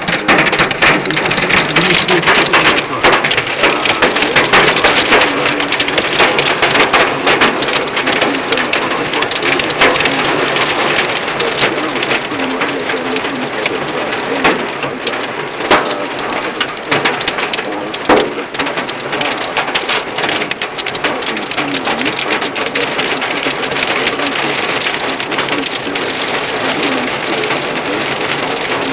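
Hailstones pelting a car's metal body in a dense, unbroken rattle of sharp impacts, like corn popping; it eases slightly toward the end.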